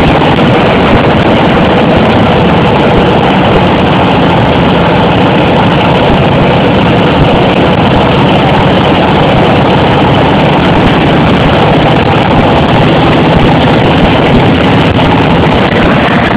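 1940 Harley-Davidson ULH's flathead V-twin running loud and steady.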